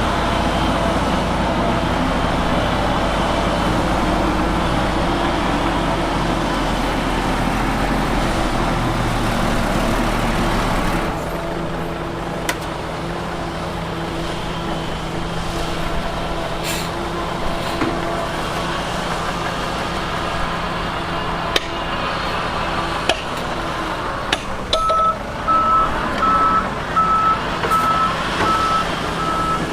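Heavy diesel earthmoving machinery running steadily, the engine dropping to a lower, quieter note about a third of the way in, with a few sharp metallic clanks. Near the end a reversing alarm starts beeping steadily, about twice a second.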